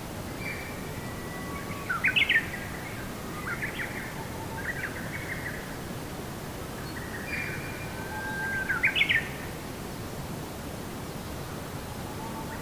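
A songbird singing two phrases, each building to a quick run of sharp rising notes, over a steady hiss of background noise.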